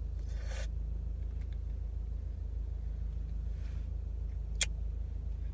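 Steady low rumble of a car idling, heard from inside the cabin. There is a brief rustle right at the start and a single sharp click about four and a half seconds in.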